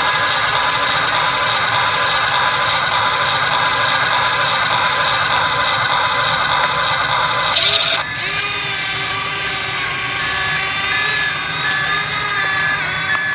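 Radio-controlled model excavator running: a steady whine of its small electric motors and hydraulic pump. About eight seconds in the pitch sweeps and shifts to a new, wavering whine.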